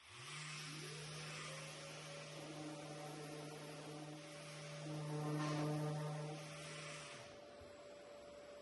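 Electric power tool, likely a sander, spinning up about a second in and running with a steady hum and a hiss, loudest around five to six seconds in. The low hum cuts off about seven seconds in while a higher whine carries on.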